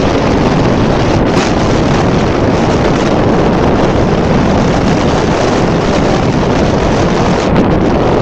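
Heavy, steady wind rush buffeting the camera microphone as the electric motorbike rides at speed.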